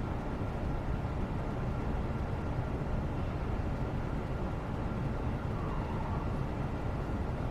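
Steady low rumbling background noise, even throughout, with a faint brief gliding tone about six seconds in.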